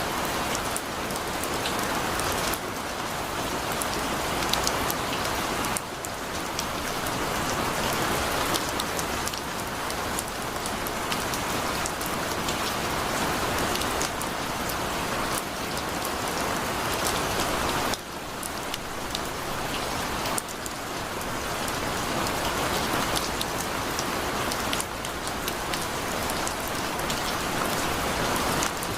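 Heavy rain falling steadily, an even rush of water with many small, sharp drop impacts; its loudness steps abruptly up or down a few times.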